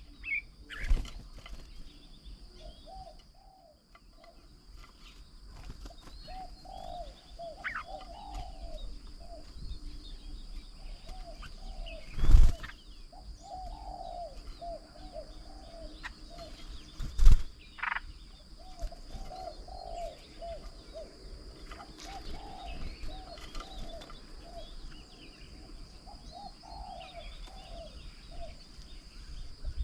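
Doves cooing over and over in short low phrases, with small birds chirping now and then. Twice near the middle, about five seconds apart, a loud thump cuts through. A steady high-pitched drone runs underneath.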